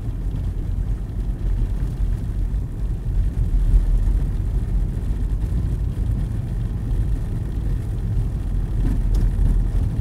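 Steady low rumble of a car heard from inside the cabin while it drives, engine and road noise with no sharp events.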